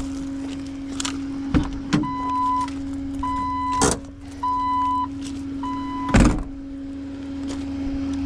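A vehicle's electronic warning chime beeps four times, evenly spaced about a second apart, over a steady low hum, with a few short knocks in between, the loudest just after the last beep.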